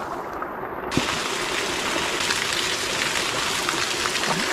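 Steady rush of water pouring and splashing into a hot-spring pool from a pipe and a small waterfall, fuller and hissier from about a second in.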